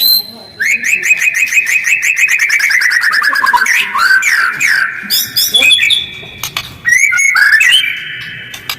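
White-rumped shama singing a fast trill of repeated notes that falls steadily in pitch for about three seconds, then a run of varied whistles and harsh chattering phrases with short gaps between them.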